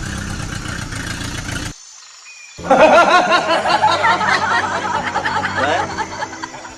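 A small motor's steady hum stops, and after a short pause comes a burst of rapid, high-pitched giggling chatter that fades near the end.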